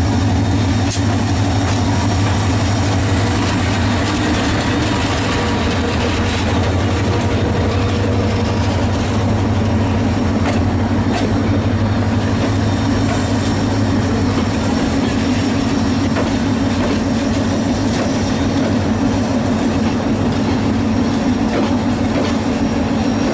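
Diesel train running close by: a steady, loud low engine drone with passenger coaches rolling on the rails and a few sharp clicks from the wheels.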